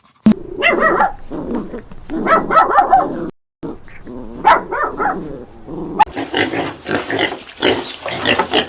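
Farm animal calls in a string of short clips: repeated grunting or barking calls, broken by abrupt cuts with a brief dead silence a little past three seconds in.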